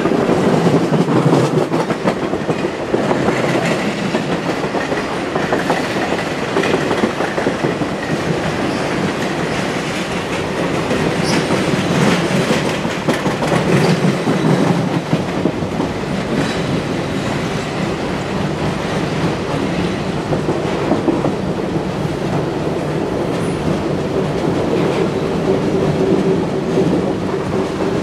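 Railroad passenger car rolling along the track at speed: a steady rumble from the wheels with clickety-clack over the rail joints, heard at the car's window.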